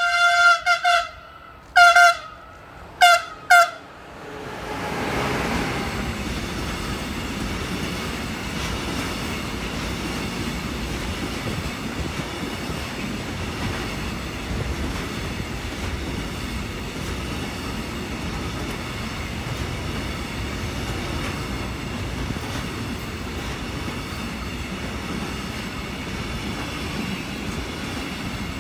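Siemens electric locomotive sounding its horn: one blast of about a second, then three short toots. From about four seconds in, the long intermodal container train rolls past close by with a steady rumble of wheels on the rails.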